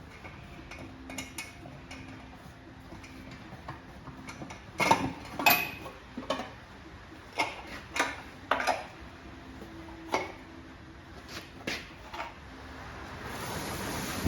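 Scattered sharp metallic clinks and clanks of tools and metal parts being handled, about a dozen, the loudest around five seconds in. A hiss swells near the end.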